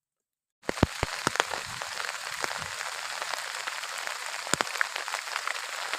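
Heavy rain falling, a dense steady hiss with many sharp drop strikes close by and a few louder knocks. It starts abruptly about half a second in, out of near silence.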